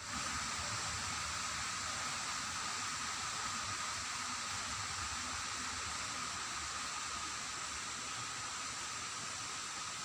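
Steady rushing of running water, even and unbroken, with a thin steady high tone over it.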